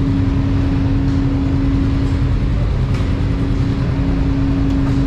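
Engine running steadily: a constant hum at one pitch over a low rumble.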